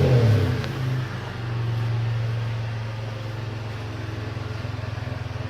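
1993 Mitsubishi 3000GT's V6 engine coming down off a rev at the start and then settling into a steady idle.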